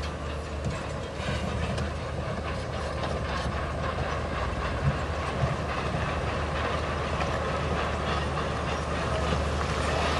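Crawler bulldozer running, its diesel engine humming steadily under the rattling clank of its steel tracks.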